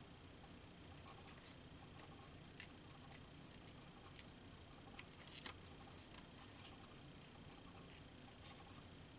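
Scissors snipping around paper cut-outs: faint, scattered snips and clicks, with the loudest short cluster of snips a little past halfway.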